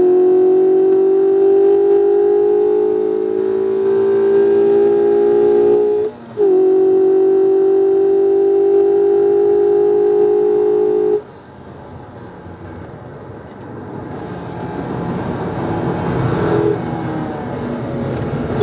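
Mazda MX-5 RF's 2.0-litre four-cylinder engine pulling hard under load, its note rising slowly, with a brief dip about six seconds in as it shifts gear, then pulling again. About eleven seconds in the throttle lifts suddenly: the engine note falls away and a rushing noise rises until the engine picks up again at the very end.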